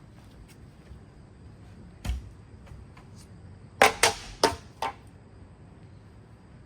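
A Hampton Bay Waterton ceiling fan being smashed: one sharp blow about two seconds in, then four quick, louder blows in a row about a second later, with a brief ring after them.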